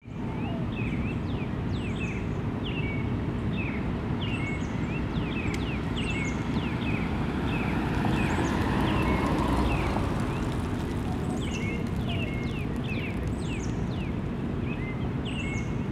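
Small birds chirping over and over in short, sharp, falling notes, over a steady low rumble of road traffic that swells for a couple of seconds near the middle.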